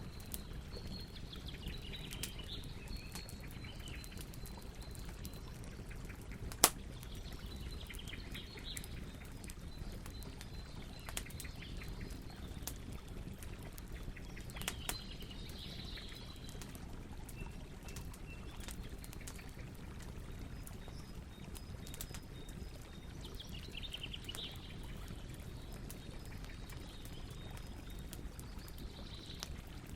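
Campfire crackling, scattered pops over a low steady rumble, with one sharp pop about seven seconds in. Birds chirp now and then in the background.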